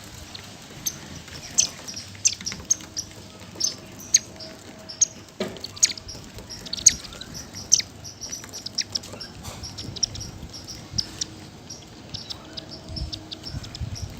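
Sparrows chirping: many short, sharp, high chirps at an irregular pace.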